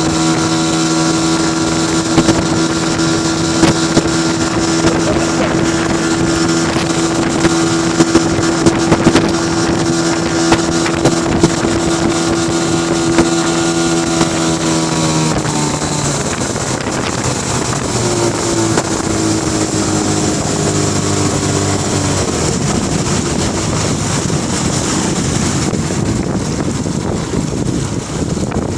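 1998 Mercury 25 HP outboard motor running at a steady speed, then throttled back about halfway through, its pitch dropping suddenly and sinking further as it runs on slower and less evenly.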